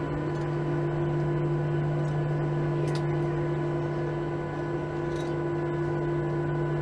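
Steady cabin hum of a Boeing 737 airliner's jet engines at idle before take-off, heard from inside the passenger cabin, with several steady tones over an even rush of air.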